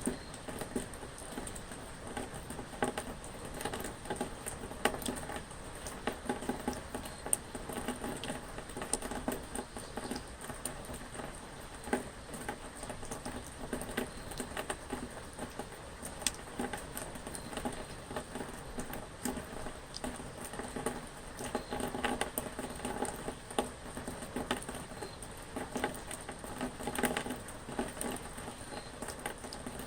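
Rain pattering, many irregular drops tapping on a surface.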